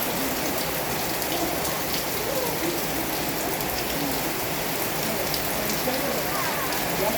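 Heavy rain falling steadily, an even rush of drops on surfaces.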